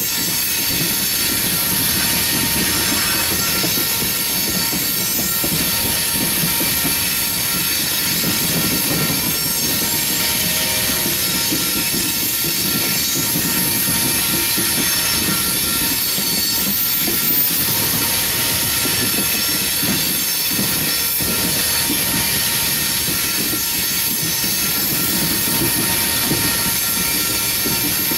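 A loaded coal train's cars rolling steadily past, with a low rumble of wheels on rail and a constant high-pitched squeal from the wheels.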